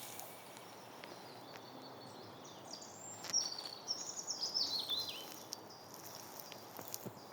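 A songbird singing a short phrase of high notes that step downward over about two seconds, a few seconds in, over a soft steady outdoor background hiss.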